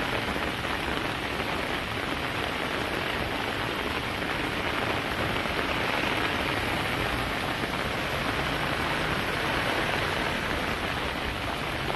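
Heavy rain falling steadily on a flooded street, an even hiss of rain on standing water.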